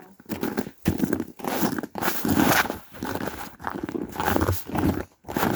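Footsteps crunching through snow, a steady run of crunches at walking pace.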